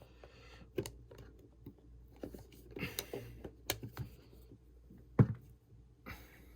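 Scattered light clicks and taps of small hand-held parts and tools being handled on a work surface, with one sharper knock about five seconds in.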